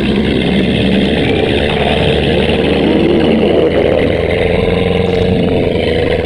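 Loud, continuous stomach-growling sound effect: a deep steady rumble with a wavering drone over it.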